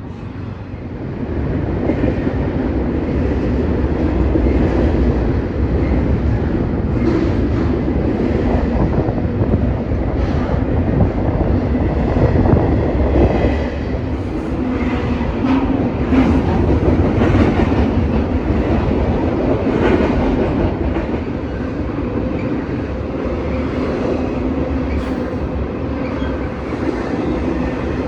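A train passing on the tracks, its wheels clacking over the rail joints over a steady rumble. The sound swells about a second in and stays loud throughout.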